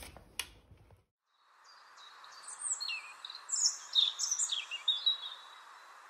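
Small birds chirping in quick, high, thin notes over a steady hiss, busiest from about two to five seconds in.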